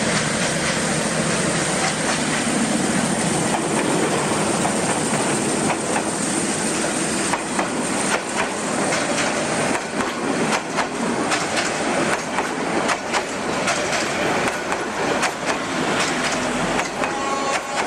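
A train passing close by at speed. Its wheels clatter over the rail joints in a rapid, irregular clicking that grows busier from about six seconds in, over a steady running noise.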